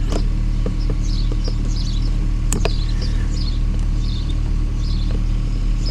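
Small clicks and taps of plastic clips on a car door's latch cable being worked loose by hand, one sharp click about two and a half seconds in, over a steady low hum of a running engine. Birds chirp in the background.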